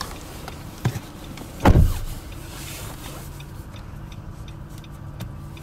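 A light click, then a single heavy low thump about two seconds in, over a steady low hum inside the car.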